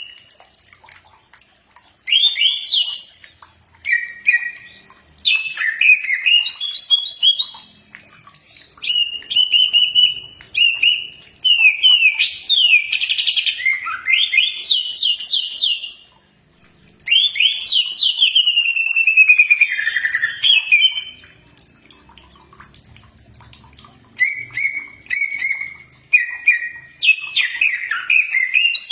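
Cucak ijo (green leafbird) singing a varied, loud song of clear whistles, quick trills and rapid chattering phrases, with a few short pauses between bursts.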